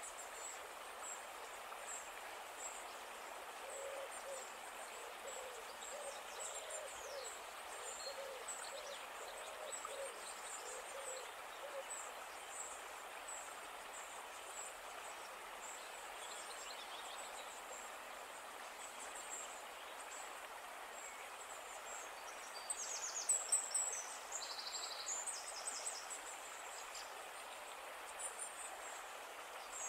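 Birds calling over a steady outdoor hiss. A run of short low notes repeats for several seconds, faint high chirps come throughout, and a few quick high trills, the loudest sounds, come about two-thirds of the way through.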